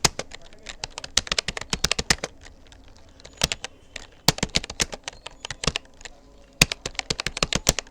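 Keys of a Rapoo computer keyboard being typed on at touch-typing speed: fast runs of clicky keystrokes broken by brief pauses.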